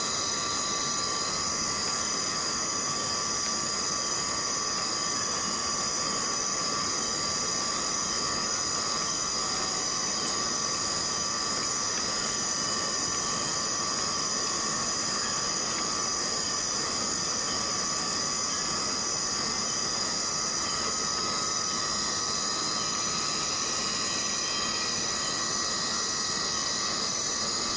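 Steady rain in a tropical rainforest, under a constant insect chorus holding several unbroken high-pitched tones.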